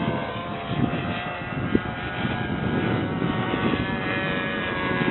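Radio-controlled model airplane's engine and propeller running steadily: a droning whine with several even, steady tones over a low rumble.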